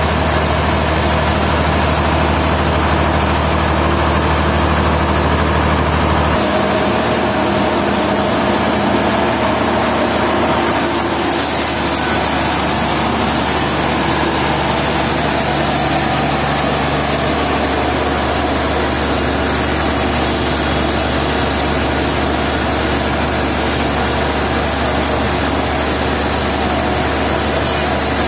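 Sawmill machinery running steadily and loud, an engine-driven drone with a constant hiss over it. Its low tone changes abruptly about six seconds in and again around eleven seconds.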